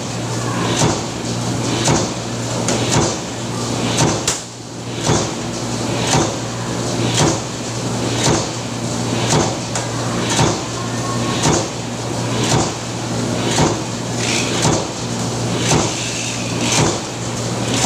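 Power press running in a factory, its strokes coming regularly about once a second, over a steady low machine hum.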